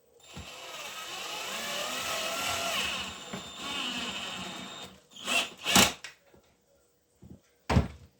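A small power tool runs for about five seconds, its pitch wavering as it works. It is followed by three short, loud knocks.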